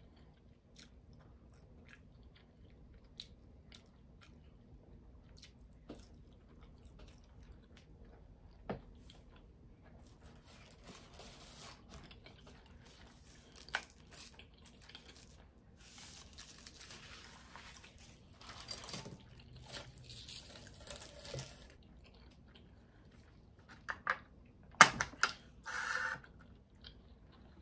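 Quiet chewing of a McDonald's chicken nugget with small mouth clicks, then a long stretch of paper rustling as a drinking straw is unwrapped. Near the end come a few loud, sharp sounds as the straw is pushed into the drink cup's lid.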